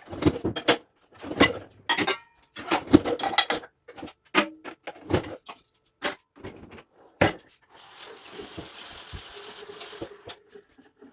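Dishes and cutlery clattering as they are handled at a sink, with a tap running for about two seconds near the end.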